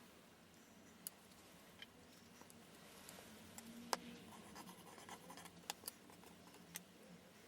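Near silence, with a faint low hum and a scattering of light clicks and scratches, the sharpest about four seconds in.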